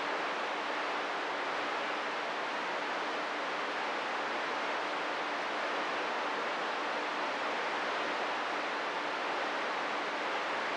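Steady hiss of static from a CB radio receiver with no station transmitting, the open-channel band noise heard between transmissions, with a faint steady hum underneath.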